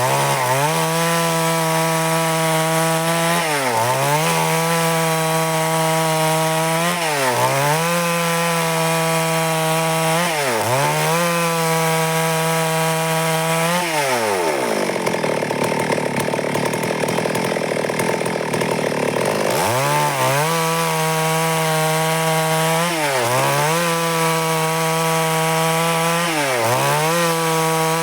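Stihl MS 382 two-stroke chainsaw running at high revs while cutting wood, its pitch dipping sharply and recovering about every three and a half seconds. About halfway through it drops to idle for around five seconds, then revs back up and carries on cutting with the same dips.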